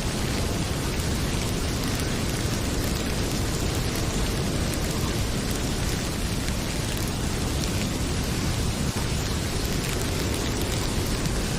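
Heavy rain pouring steadily, a dense even hiss with a low rumble beneath it, and faint sharp crackles of a wood fire scattered through it.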